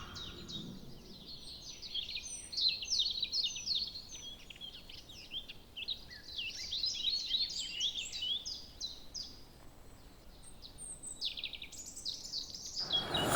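Small birds chirping: a busy run of quick, high overlapping chirps and twitters that thins out briefly near the end.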